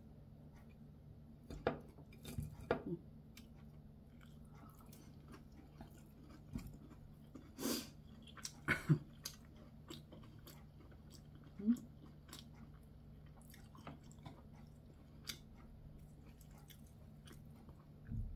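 Close-up chewing of braised white croaker and kimchi, with scattered short clicks and smacks from chopsticks against bowls and a pan. A faint steady low hum runs underneath.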